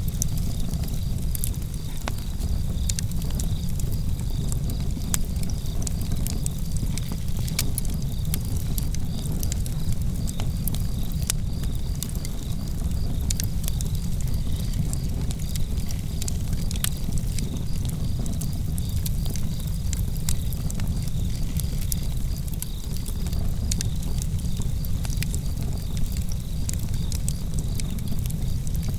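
Outdoor campfire burning, with frequent sharp crackles and pops of the wood over a steady low rumble. Crickets chirp in a continuous pulsing trill behind it.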